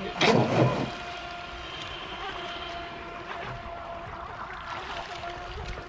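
RC model boat's motor running at a steady pitch, a constant whine, after a loud rush of noise in the first second.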